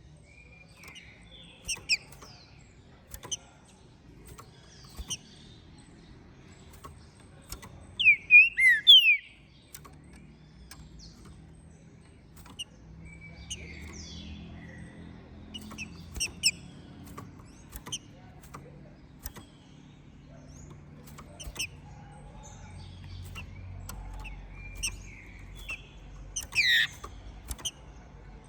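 Green-winged saltator (trinca-ferro) calling with scattered short chirps and quick gliding whistled notes, in louder bursts of several notes about eight seconds in and again near the end, over a faint low hum.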